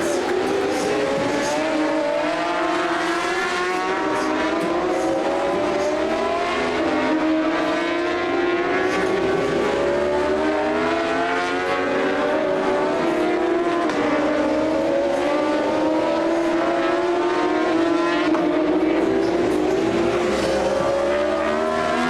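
Several superbike racing motorcycles at full throttle, their engines overlapping and climbing in pitch again and again as they shift up through the gears.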